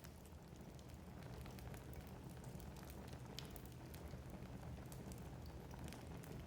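Wood fire burning in a fireplace: a soft low rumble of flame with frequent small, sharp crackles and pops of the logs, one of them louder about three and a half seconds in.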